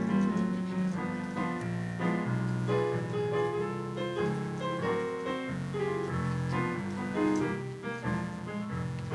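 Piano playing a slow run of chords and melody notes.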